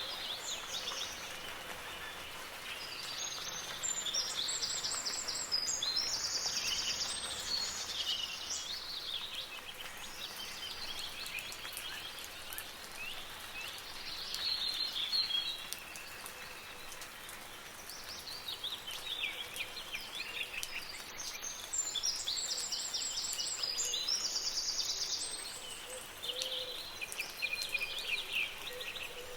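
Songbirds singing over a steady hiss of soft rain. A long, trilled song phrase comes twice, about eighteen seconds apart, with shorter chirps and calls in between.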